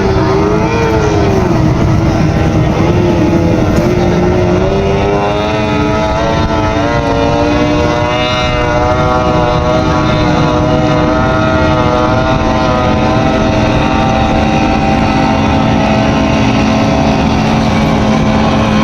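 Racing powerboat engines running loudly. Their pitch wavers up and down in the first few seconds as they are revved, then holds fairly steady.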